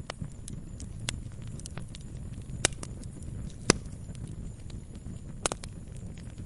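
Wood fire crackling in a fireplace: a steady low rumble of burning with scattered sharp pops and snaps. Three louder snaps stand out, two near the middle and one near the end.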